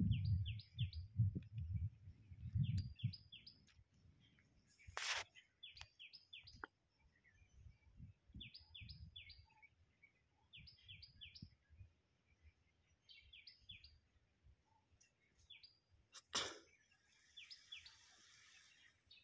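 A bird calling over and over in quick groups of about three short, high, falling chirps, every second or two. A couple of sharp clicks, about five seconds in and near the end, and low rumbling in the first few seconds.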